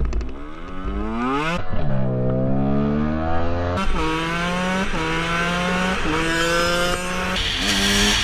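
Motorcycle engine accelerating hard and shifting up through the gears several times. Its pitch climbs and then drops sharply at each upshift.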